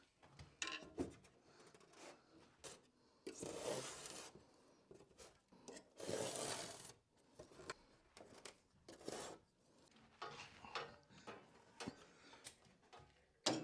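Light workshop handling noises: scattered clicks and taps, with two longer scraping rubs about three and six seconds in.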